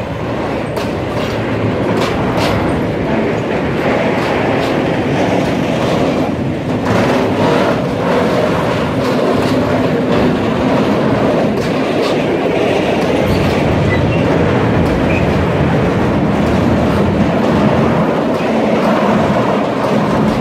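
Freight train's tank wagons rolling slowly past, the wheels clacking over rail joints with a steady rumble and scattered sharp clicks. The train is backing down after failing to climb the grade to the station.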